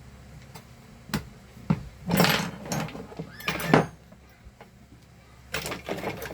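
Small parts and tools being handled and moved on a workbench while searching for screws: a few sharp knocks, two louder scraping clatters, then a run of quick small rattles near the end.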